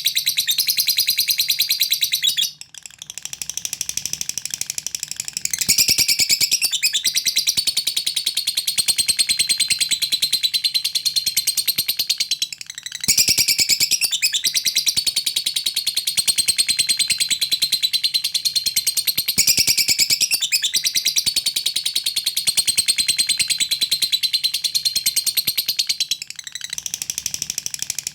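Lovebird singing a long, rapid, high-pitched chattering trill (the 'ngekek' song), in long unbroken bouts with short breaks about three seconds in, about twelve seconds in and near the end.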